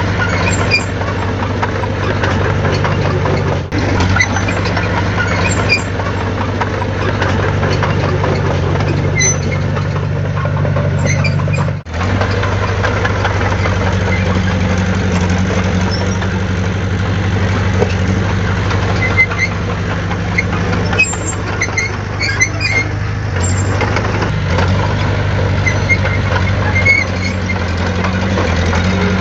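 Heavy diesel engine of earthmoving equipment running steadily, its pitch shifting a little under load, with short high squeaks and clinks scattered through. The sound drops out briefly twice, at about four and twelve seconds in.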